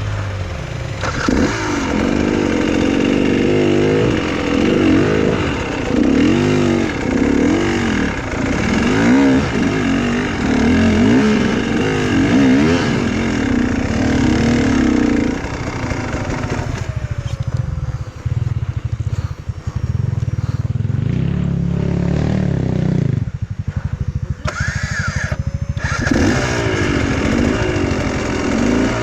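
Enduro motorcycle engine revving in repeated surges as the rider works the throttle to get through a tight spot where the bike is held up. About halfway through it drops to low revs, eases nearly to idle, then revs up again near the end.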